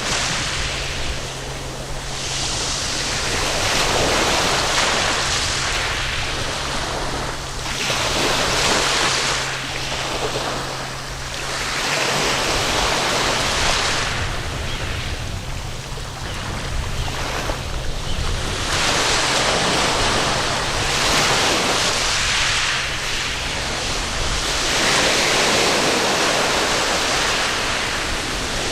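Waves breaking and washing up a sandy beach, one surge every two to three seconds, with some wind on the microphone.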